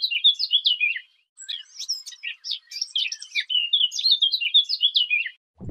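Songbird singing a fast, varied song of rapid chirps and trills, in two stretches with a short pause about a second in.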